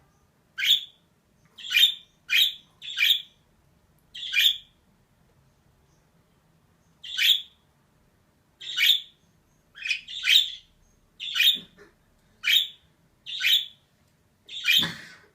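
Female budgerigar calling in short, sharp chirps, about a dozen single calls at irregular gaps, with one slightly fuller call near the end.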